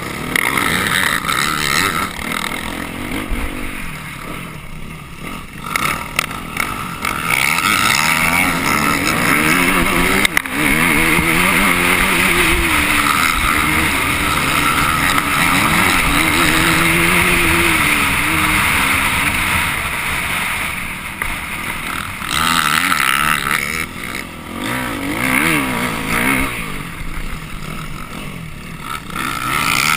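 Off-road motorcycle engine heard from onboard, its pitch rising and falling as the throttle is opened and shut through the course. It runs hard for a long stretch in the middle and eases off twice, with a sharp knock about ten seconds in.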